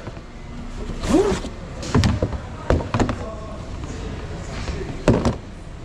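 Car repair shop background: a steady low rumble with several sharp knocks, the loudest near the end, and a brief snatch of a voice about a second in.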